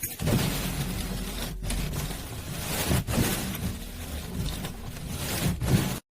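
Starter motor cranking a cold car engine, turning it over without it starting; the sound cuts off suddenly near the end.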